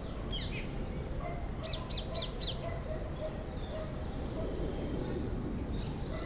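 Small birds chirping in short runs of quick, falling notes, a few times, over a steady low background rumble.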